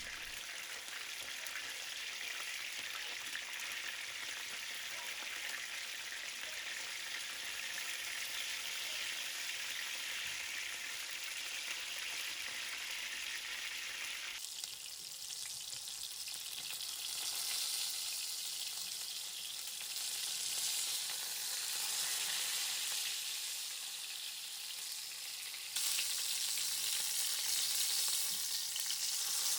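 Marinated chicken breast sizzling steadily as it fries. The sizzle changes abruptly about halfway through and again near the end, getting louder the second time.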